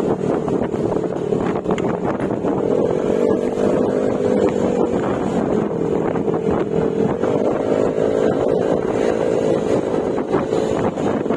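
Yamaha Mio Gravis scooter's single-cylinder engine running through an Akrapovic exhaust with silencer while under way; its pitch rises about two seconds in, settles back, rises again around seven seconds and eases near the end. Wind buffets the microphone throughout.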